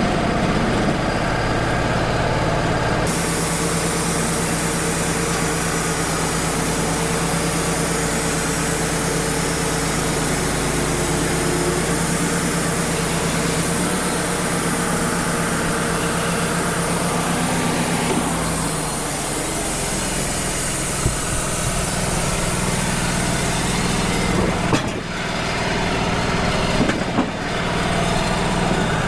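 Wood-Mizer LT35 portable band sawmill running, its engine droning steadily while the band blade saws through an eastern red cedar log. A high hiss comes in about three seconds in and fades in the last few seconds.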